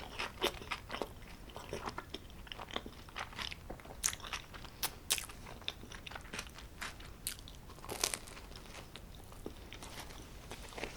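Close-miked chewing of homemade pizza: irregular soft crunches and wet mouth clicks, with a few louder crunches scattered through.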